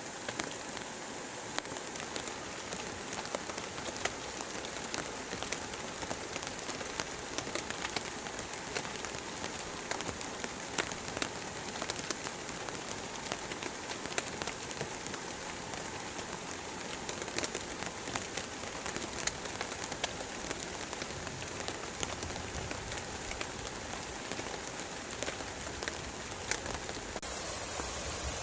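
Heavy rain falling steadily, with many single drops ticking sharply on a surface close by.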